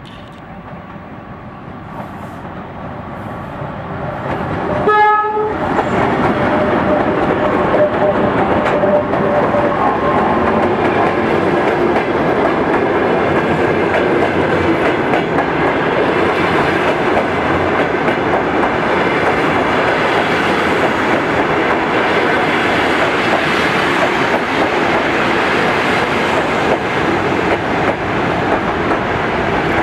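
2TE116 diesel locomotive approaching with a passenger train, growing louder, and giving one short horn blast about five seconds in. The locomotive and its coaches then pass close by, with a steady loud rumble and wheel clatter on the rails.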